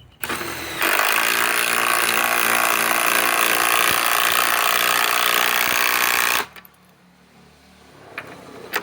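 Masterforce Boost cordless impact driver driving a large screw into wood: a brief trigger blip, then a loud, steady run of about five and a half seconds that stops suddenly.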